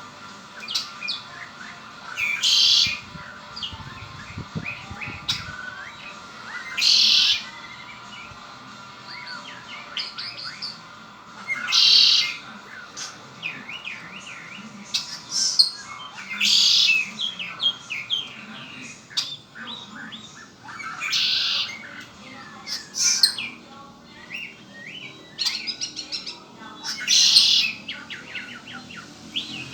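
Red-winged blackbird singing: a loud song phrase roughly every four to five seconds, with short chirps and whistles in between.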